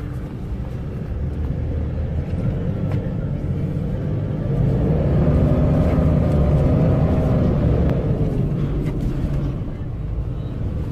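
Car driving with steady engine and road rumble. From about four to eight seconds in, an engine note rises in pitch, grows louder, then falls away.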